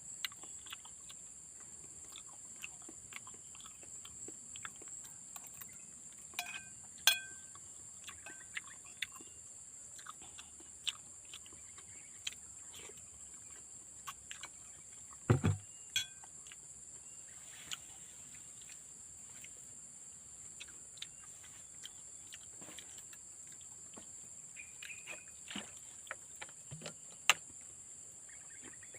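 Garden ambience: a steady high drone of insects, with short bird chirps and scattered clicks over it, and one louder low thump about halfway through.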